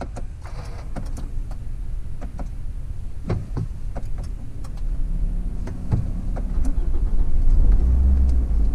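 Campervan engine started with a push button: small clicks, then the engine running with a low rumble that grows stronger from about five seconds in. Near the end the automatic gear selector is moved.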